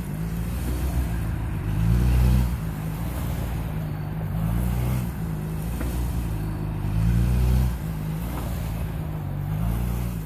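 A 600cc sport motorcycle's engine revving up and easing off over and over as it is swung through tight figure-eights around cones. The revs rise and fall about every two and a half seconds.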